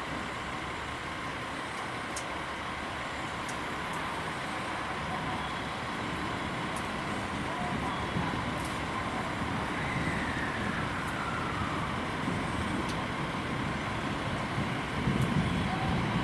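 Train running through the station, a steady rumble with a falling whine about ten seconds in; the noise grows louder near the end as the train draws closer.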